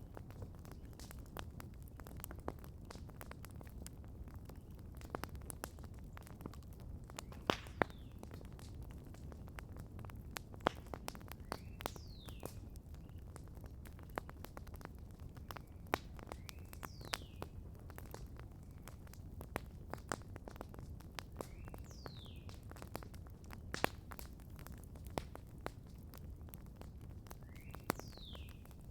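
Campfire crackling, with frequent sharp pops over a low steady rumble. A bird repeats a short call that slides down in pitch, four times about five seconds apart.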